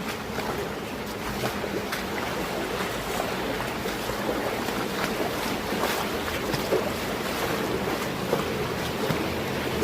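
Flowing water of a mountain stream: a steady rush with many small splashes scattered through it.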